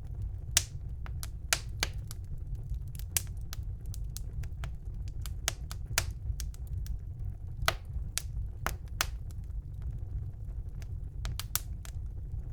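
Wood fire burning in a fireplace: irregular sharp crackles and pops, several a second and some louder than others, over a steady low rumble of the flames.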